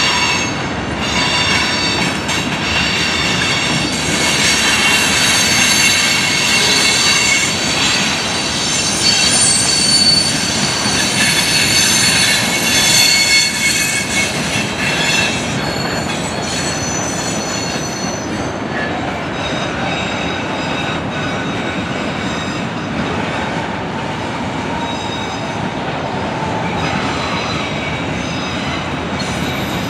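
Freight train cars (boxcars, covered hoppers, then autoracks) rolling past close by, a steady rumble and clatter of wheels on rail. High-pitched wheel squeal rings over it through the first half and fades out about halfway through.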